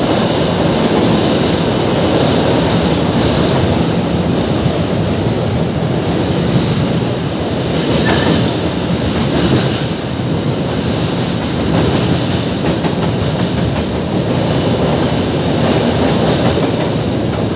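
Freight cars of a long train rolling over a steel girder railway bridge: a steady rumble of steel wheels on rail, with scattered clacks.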